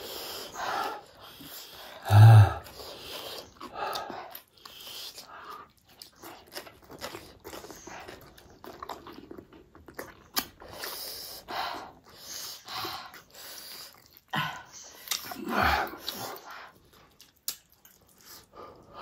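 Close-up chewing and eating mouth sounds: small smacks, clicks and slurps while noodles are chewed. There is a brief louder mouth sound about two seconds in.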